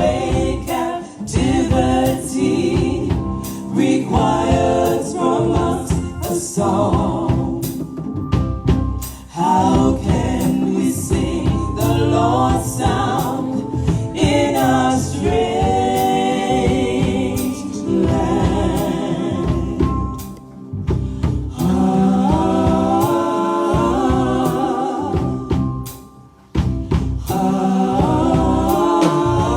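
Choir singing gospel music, loud and continuous, with a few short breaks between phrases.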